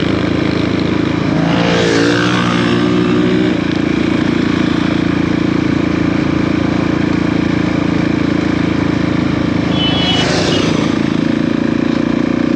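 Motorcycle engine running under way. Its note climbs and then changes about two to three seconds in, as when the bike accelerates through a gear, and it then holds steady.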